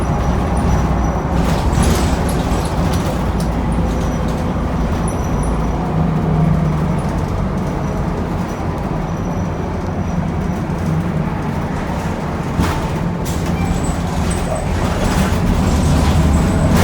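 Cabin sound of a 2009 NABI Metro 45C transit bus under way: its Cummins Westport L9N natural-gas engine and Allison B400R6 automatic transmission running under a steady low rumble of road noise, with occasional short rattles and knocks from the body.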